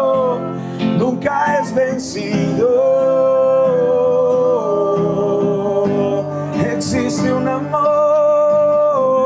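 Live worship song: a singer holds long, drawn-out notes over a plucked guitar accompaniment, one note stepping down to a lower pitch partway through.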